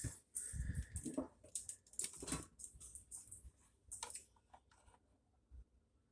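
Rustling and scattered light clicks and knocks of tools being handled as an amp clamp meter is fitted.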